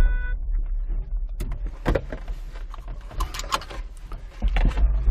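Scattered clicks and knocks of handling in a glider cockpit, over a steady low rumble. A steady pitched tone cuts off just after the start.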